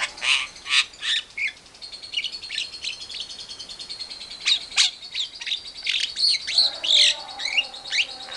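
Birds calling in a series of short, sharp chirps and squawks, with a steady high thin tone running under them from about two seconds in.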